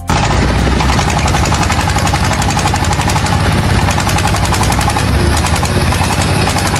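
A machine running with a fast, steady mechanical clatter and a steady whine.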